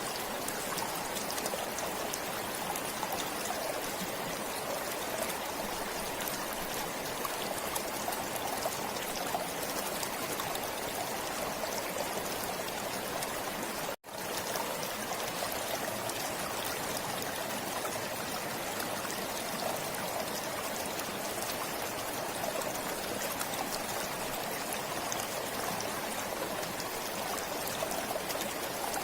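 Forest stream flowing steadily, with a split-second dropout about halfway through.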